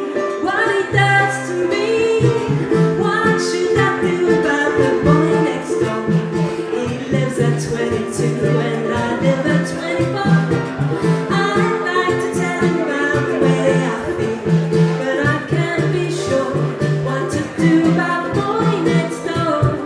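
Live band music with plucked strings and a walking bass line, a woman singing over it.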